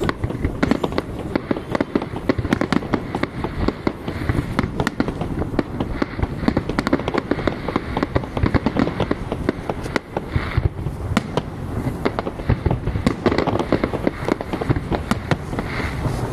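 Fireworks display: a dense, unbroken barrage of bangs and crackling reports, many a second.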